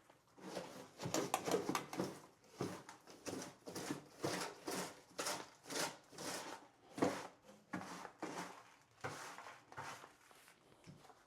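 Brush sweeping dirt and debris across a floor, in quick scraping strokes about two a second.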